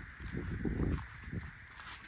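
Wind buffeting the microphone in uneven gusts, strongest about half a second in, with footsteps of people walking.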